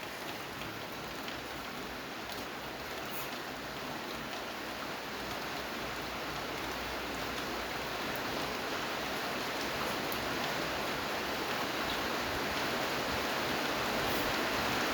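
Steady rain falling: an even hiss with a few faint drop ticks, growing gradually louder.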